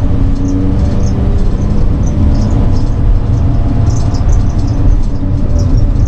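A moving RV's engine and road noise: a steady low rumble, with faint light ticks over it.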